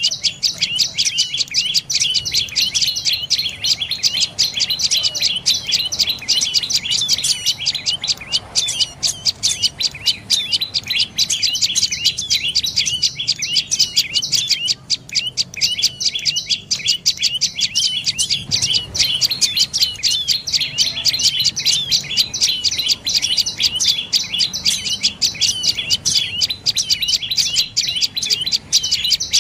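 Dark-necked tailorbird calling: a fast, continuous string of short, high, sharp notes, several a second, with a brief lull about midway.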